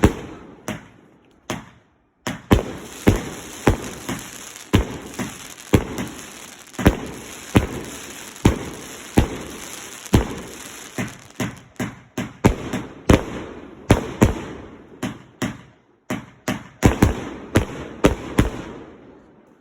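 Fireworks going off: an irregular run of sharp bangs, one to three a second, over a continuous hiss. A brief pause comes about two seconds in, and the bangs thin out near the end.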